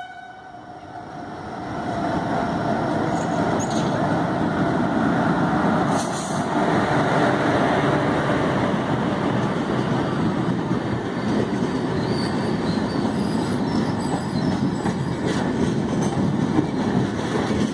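Express passenger train arriving at the platform behind an electric locomotive, its coaches rolling past with a steady rumble of wheels on rail that builds over the first two seconds. Faint high-pitched wheel squeals come in about two-thirds of the way through.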